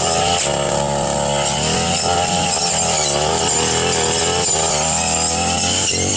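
Brush cutter engine running steadily while cutting grass, its pitch wavering up and down as the load on the blade changes.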